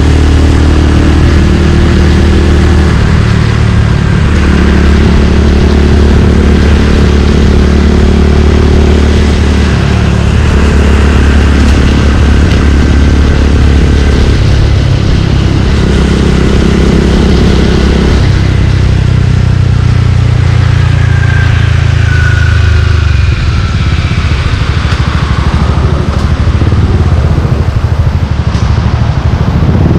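Suzuki Gixxer 155's single-cylinder engine running through a Yoshimura aftermarket exhaust while riding in traffic. Its steady note steps up and down several times as the throttle and gears change.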